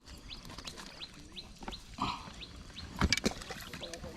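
A bird calling in the background with a steady run of short rising chirps, about three a second. Near the end come a few sharp clicks.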